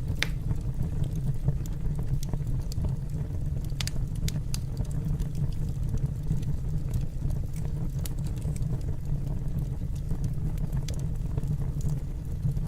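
Wood fire burning in a fireplace, with a steady low rumble and scattered sharp crackles and pops, a few of them louder just after the start and around four seconds in.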